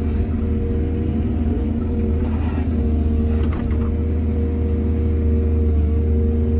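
Excavator diesel engine running steadily under load, with a brief clatter about two to four seconds in.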